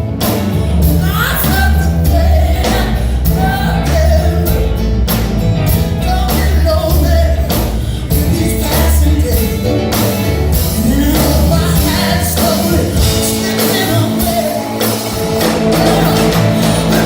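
A live band playing rock-blues music with a man singing over a steady drum beat and a heavy bass line.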